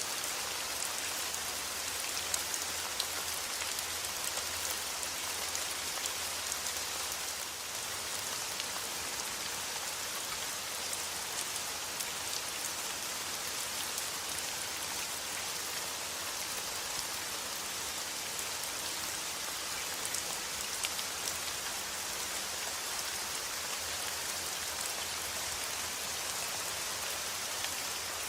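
Steady rain falling on a surface: a dense, even hiss of drops with scattered sharper drop ticks.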